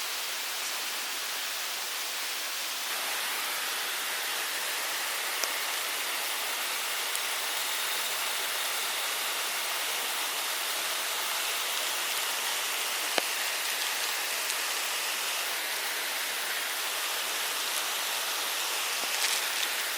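Steady rushing of a forest stream, with a few faint sharp clicks.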